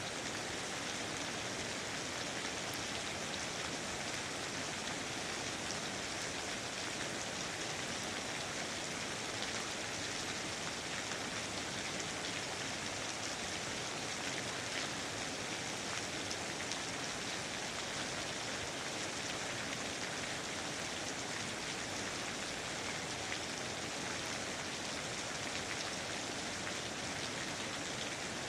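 Steady rain falling, an even hiss of many drops with fine scattered drop ticks.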